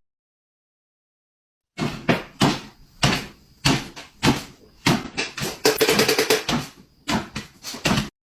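A series of about a dozen sharp, irregular knocks and bangs, starting about two seconds in, with a quick run of them near the middle.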